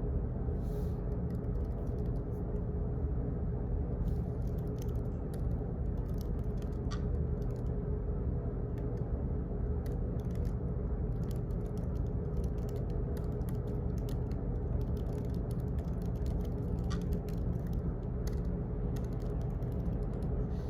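Office background noise: a steady low hum with light clicks scattered at irregular intervals.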